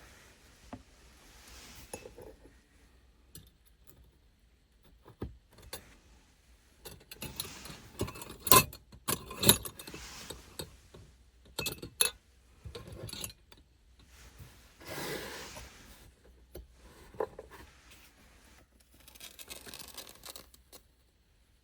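Small objects being handled: a string of sharp clinks and knocks, two loudest in the middle, with rustling and scraping between them.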